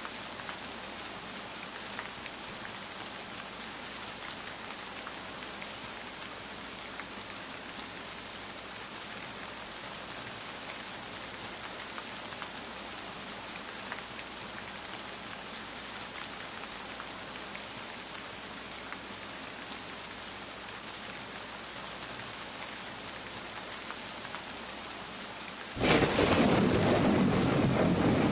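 Steady rain falling, a continuous hiss with faint scattered drop ticks. Near the end a loud, deep rumble of thunder breaks in suddenly and keeps rolling.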